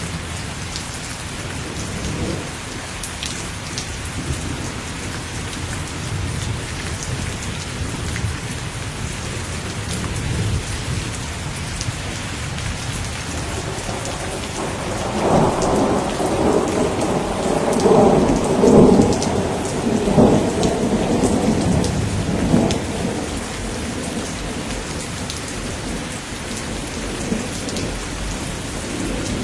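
Steady rain falling, with thunder rumbling low underneath. About halfway through, a louder roll of thunder builds and rumbles on for several seconds before dying back into the rain.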